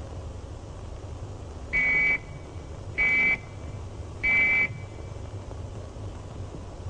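Three short blasts on a whistle at one steady high pitch, about a second apart: the fallout warning signal, meaning radioactive fallout is expected.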